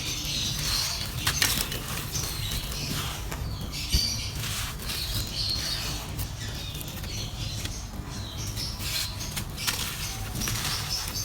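Dry clay being crumbled and crushed in a clay pot: a steady dry crackling made of many small, sharp crunches.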